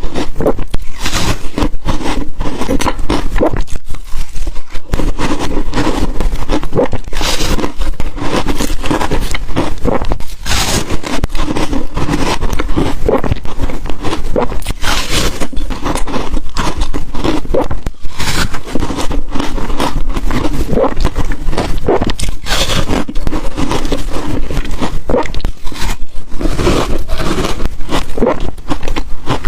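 Ice coated in matcha and milk powder being bitten and crunched between the teeth: a dense, loud run of crackling crunches with short gaps, a few bites standing out sharper than the rest.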